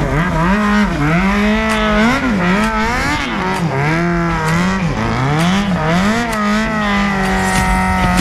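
Motorcycle engine revved hard during a burnout, its pitch rising and dropping again about once a second, then held high for a second or so near the end.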